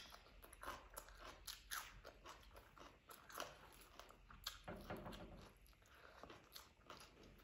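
Close-miked chewing and biting with small wet clicks and smacks of the mouth, as a hand-fed mouthful of rice and curried chicken is eaten.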